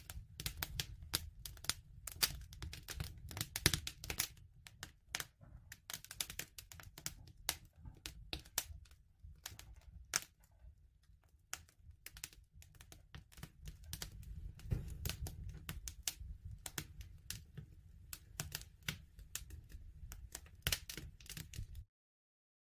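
Wood fire crackling: a dense run of sharp irregular pops and snaps over a low, steady rumble of burning. It cuts off to dead silence near the end.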